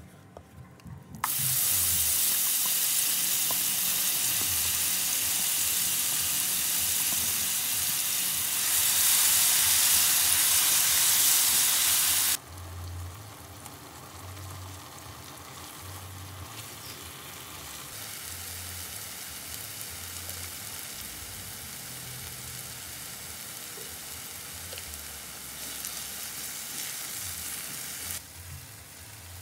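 Ground spice paste frying in hot oil in a non-stick pan: a loud sizzle that starts suddenly about a second in, then drops abruptly to a quieter, steady sizzle about twelve seconds in as the paste cooks with a lemongrass stalk and is stirred.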